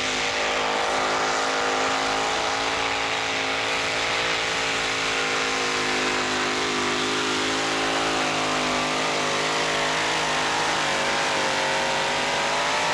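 Pulling tractor's engine running at high revs under heavy load, dragging the weight sled. The pitch holds nearly steady with slight wavering, after climbing just before this.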